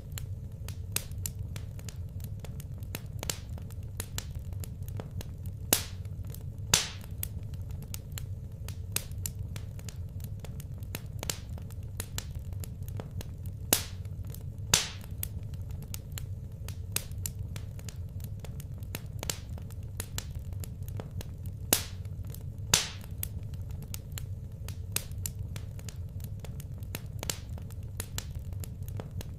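Wood fire burning in a fireplace: continual irregular crackling over a low steady rumble, with a few louder pops, mostly in pairs about a second apart.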